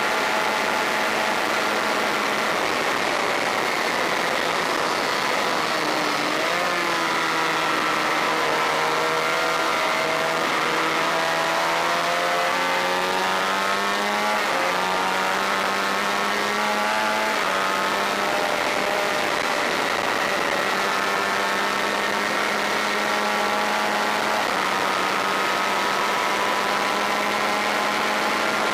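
Honda VFR400's V4 engine running hard on track, with wind rushing past. The engine pitch drops about six seconds in as the bike slows, then climbs back in steps over the next ten seconds and holds high to the end.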